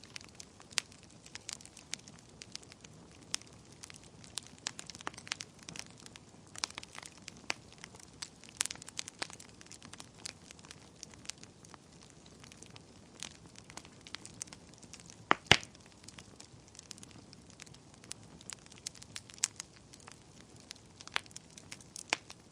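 Wood fire burning in a fireplace, crackling with irregular small pops over a soft steady hiss, and one loud sharp pop about two-thirds of the way through.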